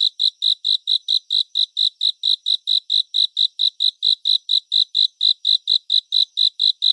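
Cricket chirping in a steady, even rhythm of about five short, high chirps a second.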